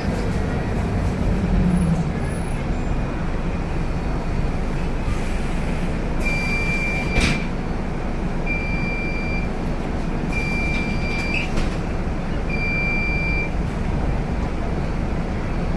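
Inside a Scania K250UB city bus: the diesel engine and road noise run steadily while an electronic beeper sounds four long, even beeps about two seconds apart, starting about six seconds in, with a sharp knock during the first beep.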